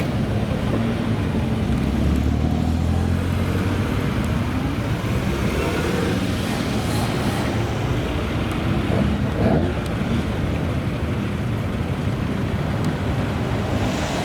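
A car's engine running amid road noise, its low steady note strongest for a couple of seconds near the start.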